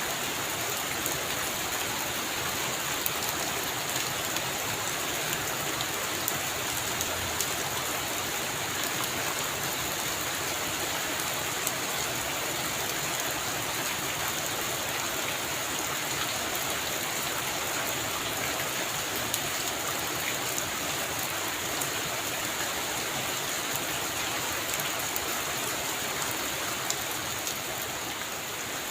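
Heavy rain falling steadily on a roof, a dense even hiss dotted with sharp individual drop ticks.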